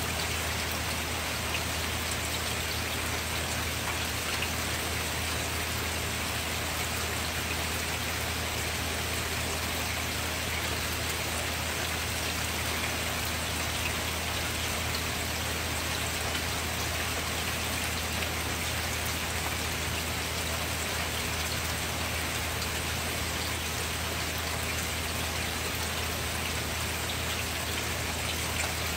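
Steady rain falling, an even hiss that does not change, with a low steady hum underneath.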